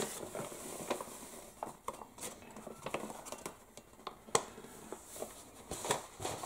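Paper flour bag rustling and crinkling as flour is shaken out of it into a ceramic bowl, with scattered light clicks and taps and one sharper tap about four seconds in.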